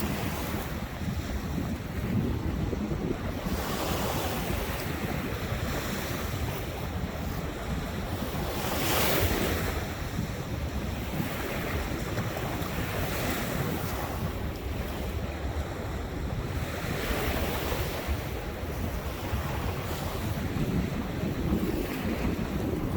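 Ocean surf: waves breaking and washing up the shore in slow swells every few seconds, the loudest about nine seconds in. Wind buffets the microphone with a low rumble underneath.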